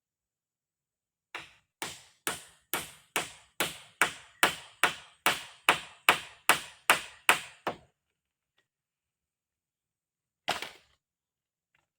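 A tool striking wood about fifteen times in a quick, even rhythm, a little over two strikes a second, growing louder, then one more strike near the end.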